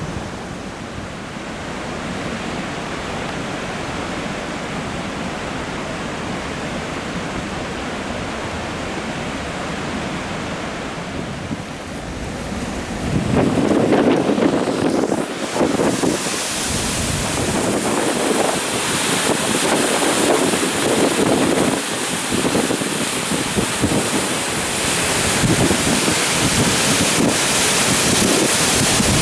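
Large volume of water rushing from the Kanogawa Dam spillway during a flood release, a steady roar. About halfway through it gets louder and rougher, with wind gusting against the microphone.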